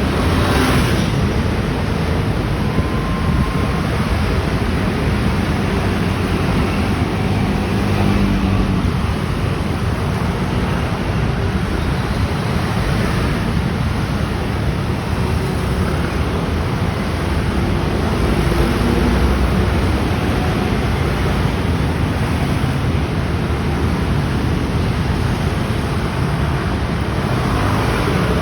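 A dense, continuous flow of motor scooters running past, giving a steady wash of engine and tyre noise with individual engines coming and going.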